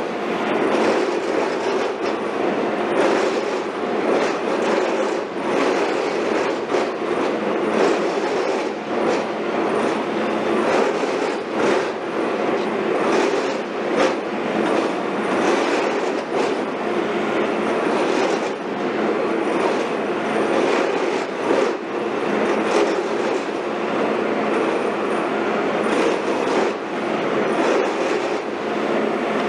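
Heavy construction machinery running, with a steady, dense metallic rattling and clatter.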